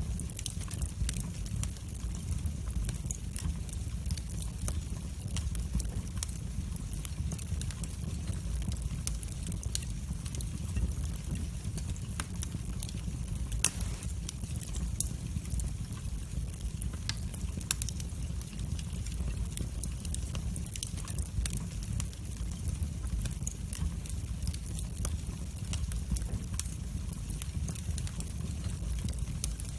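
Wood fire burning in a fireplace: a steady low rumble with constant scattered crackles and small pops, one sharper pop about halfway through.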